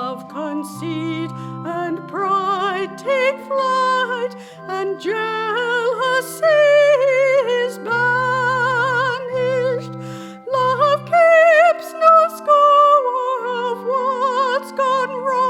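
A hymn sung by a woman's voice with marked vibrato over held, sustained keyboard chords.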